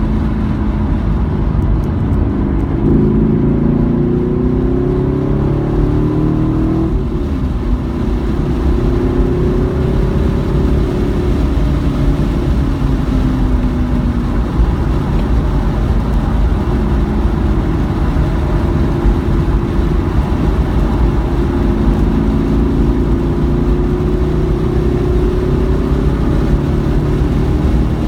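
Race-track car engine accelerating and easing off: its pitch climbs for a few seconds, drops sharply about seven seconds in, sinks slowly, then climbs again in the last few seconds, over a steady low rumble of road noise.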